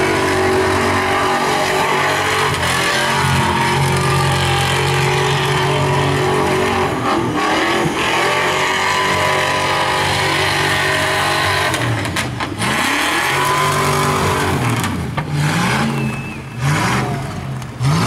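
Holden VP Commodore's V8 engine held at high revs through a burnout, the rear tyres spinning. The revs dip briefly about seven seconds in, then from about twelve seconds on they fall and rise again several times as the throttle is lifted and reapplied.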